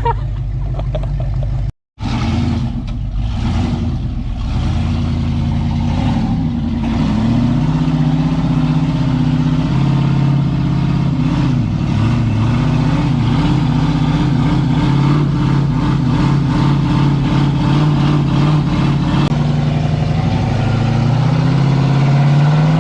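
4x4 competition truck's engine running under throttle, its pitch rising and falling with the revs. The sound drops out for an instant about two seconds in.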